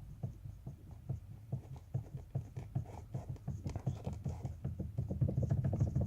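Toyota Corolla steering shaft knocking: rapid, evenly repeated knocks, about four a second, with a low hum growing louder about five seconds in. The owner was advised to cure it by tightening a nut, pointing to a loose fastening on the shaft.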